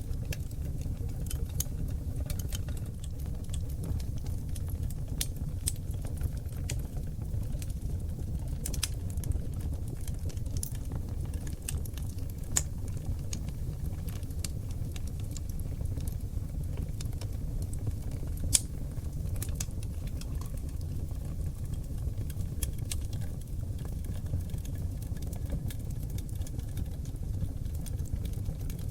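Oak logs burning in an open fireplace: a steady low rumble of flame with scattered sharp crackles and pops. The loudest pop comes about 18 seconds in.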